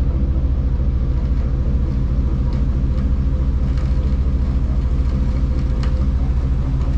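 Dutch barge's inboard diesel engine running steadily at low revs, with an even low pulsing.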